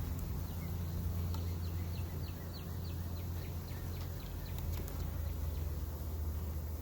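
A songbird sings a quick trill of about fifteen short, downward-sliding chirps, lasting about four seconds, over a steady low hum.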